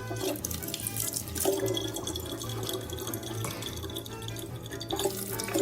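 Running water, like a tap, with background music that has a steady low beat.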